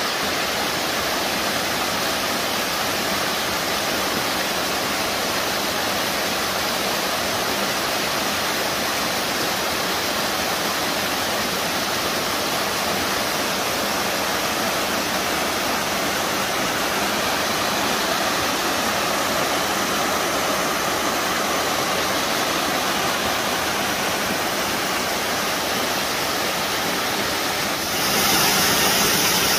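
Waterfall: a steady rush of falling water. About 28 s in it abruptly gets louder and hissier.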